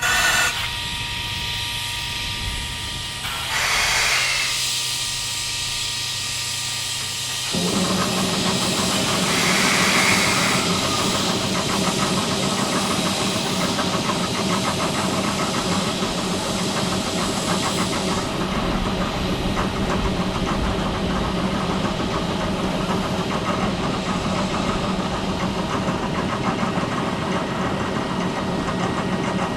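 Railway locomotive air system hissing in short blasts, then, about a quarter of the way in, a steady machine drone starts and runs on. This is typical of a locomotive's engine or air compressor running while it stands at the platform.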